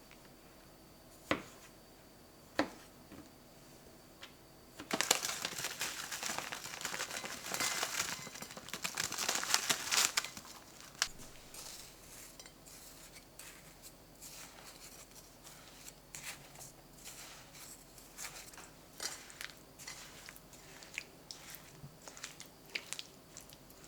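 Kitchen handling sounds: two sharp clicks, then about five seconds of crinkling and rustling, followed by scattered light clicks and taps, like dishes and utensils being handled.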